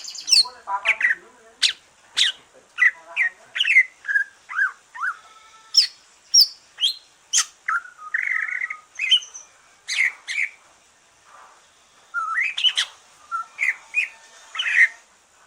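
A cucak ijo (green leafbird), a caged songbird just out of its moult, singing a fast, varied run of short whistled notes and sweeping chirps, with a brief lull a little past the middle.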